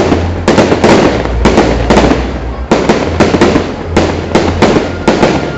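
Loud fireworks: shells bursting one after another, about one strong bang a second, with dense crackling in between.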